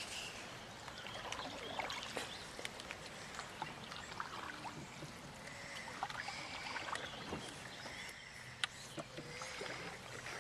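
Water lapping and trickling around a canoe on a river, with scattered small clicks and knocks.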